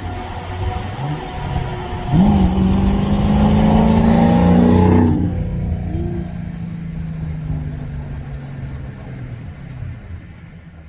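Subaru BRZ's flat-four boxer engine running, revved up sharply about two seconds in and held high for about three seconds, then dropping back and fading away.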